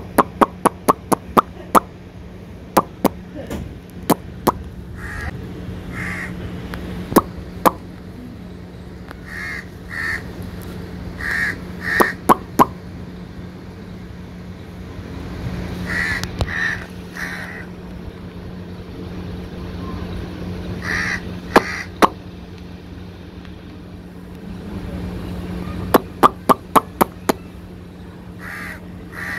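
Birds calling with short, harsh, caw-like calls, often two or three in a row, over a steady low hum. Runs of sharp, rapid clicks at several points are the loudest sounds, fastest near the start and again near the end.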